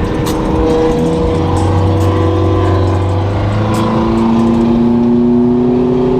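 Car engines running, with several engine notes heard at once; from about halfway through, one engine's revs climb slowly and steadily.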